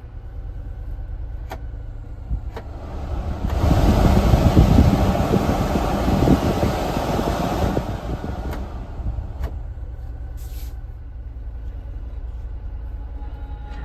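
1997 Honda Acty truck's small three-cylinder engine running with a steady low hum. In the middle a louder rushing noise swells for about four seconds, and a few sharp clicks are heard.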